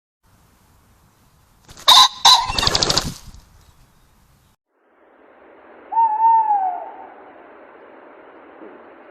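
Wild bird calls on trail-camera audio: a loud two-note call followed by a quick fluttering burst, then, over the camera's steady hiss, a single drawn-out call that rises briefly and falls away.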